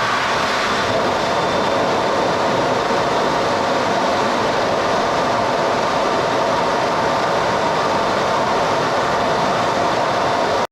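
Electric hand dryer blowing a loud, steady rush of hot air, used to dry wet socks.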